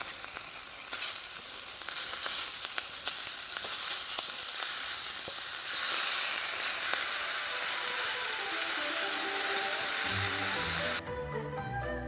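A stir-fry of pork, cabbage and green pepper sizzling in a pan over high heat from a wood fire, with a few sharp clacks of the utensil against the pan in the first seconds. The sizzle cuts off suddenly near the end and background music with strings comes in.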